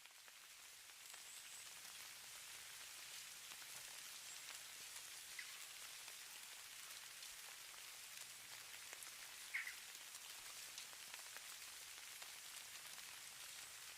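Faint, steady hiss and patter of falling snow, dense with fine crackling ticks. One slightly sharper tick stands out about ten seconds in.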